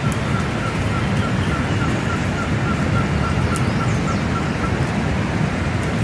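Steady rushing of river rapids, with a fast, even run of short high chirps, about four a second, that stops about five seconds in.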